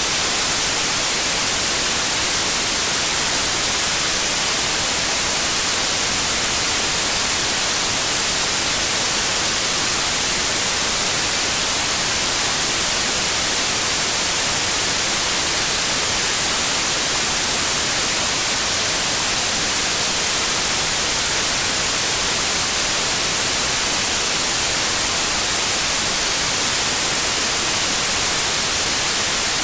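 Steady white noise: an even, unbroken hiss, bright and strongest in the high frequencies, with no changes in level, played as a sleep aid for babies.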